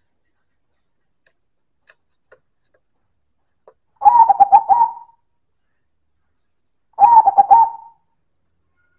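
Silver zebra dove (perkutut) singing: two short cooing phrases of quick, rolling notes, about four and seven seconds in.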